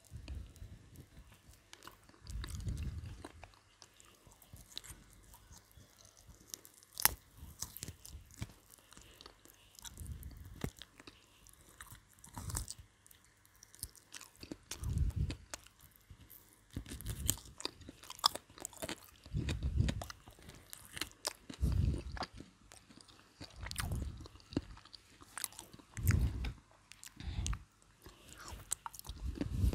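Close-miked biting and chewing of cold McDonald's crispy fried chicken: sharp crunches and clicks from the breaded coating, with duller low mouth sounds every couple of seconds.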